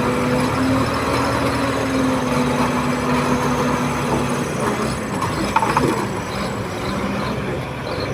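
Diesel engine of a Komatsu D31P crawler bulldozer running steadily, with a single sharp knock about five and a half seconds in.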